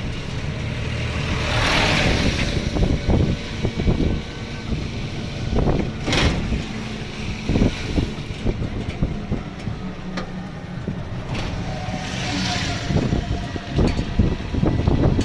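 Riding in a road vehicle: steady engine and road rumble with frequent jolts, and two louder rushing swells, one about two seconds in and one near the end.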